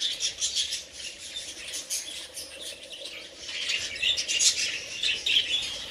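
A flock of budgerigars chattering and chirping, many quick high chirps overlapping, growing a little busier in the second half.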